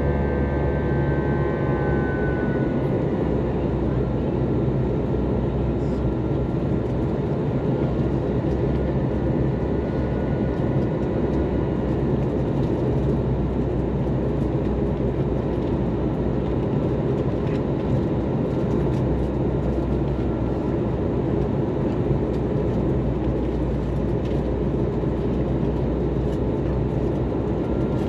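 Inside the cabin of an Airbus A321-231, the steady rush of airflow and the drone of its IAE V2500 engines, as heard in flight. Thin engine whine tones slide down slightly in pitch and fade in the first couple of seconds, then the noise holds steady.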